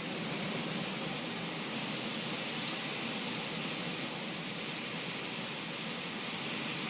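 Hurricane rain and wind, a steady hiss of noise that keeps an even level.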